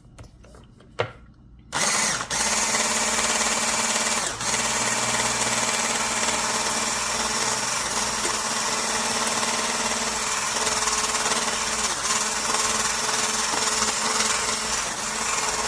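Electric blender motor switched on about two seconds in, then running steadily at high speed.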